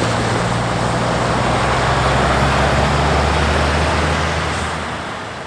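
Heavy truck's diesel engine running steadily as it drives by, with road and tyre noise, fading away in the last second or so.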